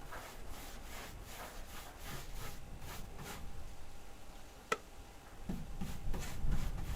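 A paintbrush brushing wood stain onto wooden wall boards in a run of short, repeated strokes. There is one sharp click just under five seconds in.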